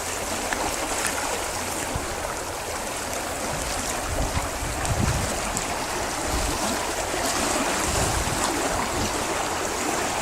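Keremeos Creek running high with spring runoff water, a steady rushing of swollen creek water, with a few low rumbles about halfway through and near the end.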